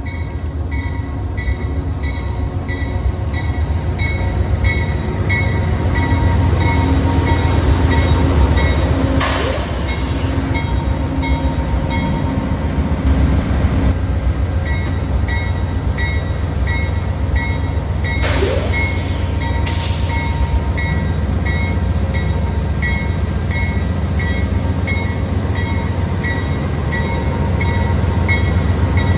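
Amtrak Cascades passenger train running by with a steady low rumble. A bell rings steadily at about two strikes a second over it, and there are brief bright hissing sweeps about nine and eighteen seconds in.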